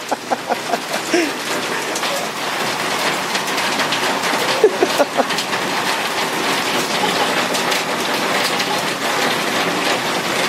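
Heavy rain pouring down: a steady hiss with a dense patter of drops hitting the ground.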